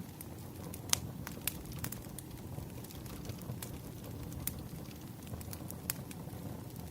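Wood fire crackling: a steady low rumble with sharp, irregular pops, the loudest about a second in.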